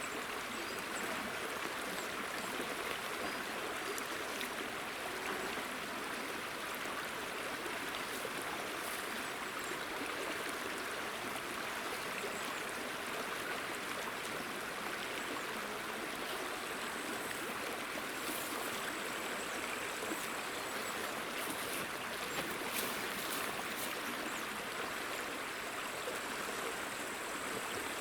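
Steady rushing of a small river's flowing water, even and unbroken.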